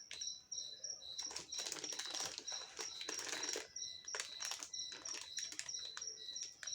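Plastic sweets packaging crinkling and rustling as it is handled and turned over. A high, steady chirping repeats about two to three times a second throughout.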